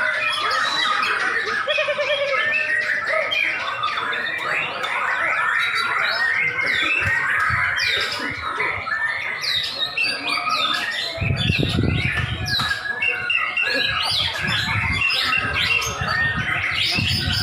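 Many white-rumped shamas (murai batu) singing at once, a dense overlapping tangle of fast chirps, trills and whistles. A low rumble joins beneath them about two-thirds of the way through.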